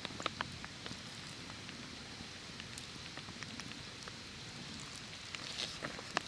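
Campfire crackling softly: a low steady hiss with scattered small snaps, a few in the first second and more near the end.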